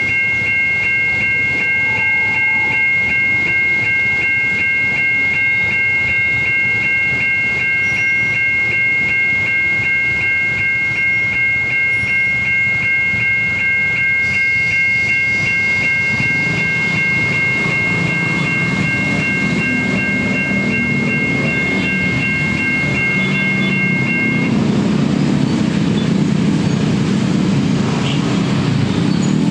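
Level-crossing electronic warning bell of a Siemens crossing system, an American-style pulsing tone made of several steady pitches, sounding continuously and stopping about three-quarters of the way through. About halfway in, a passing train's rumble and wheel clatter build up and grow louder to the end.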